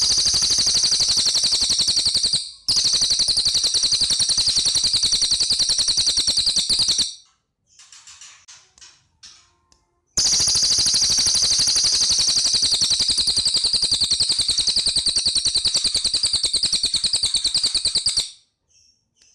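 A cililin songbird singing long, rapid trills of repeated high notes, two long runs broken by a few seconds of faint short chirps and a pause.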